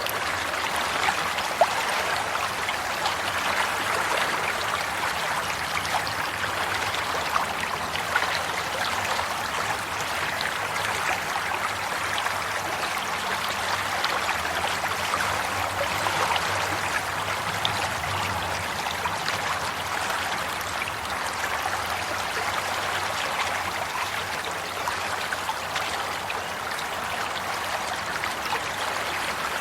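Stream water running and trickling, a steady babble with small splashes and droplets.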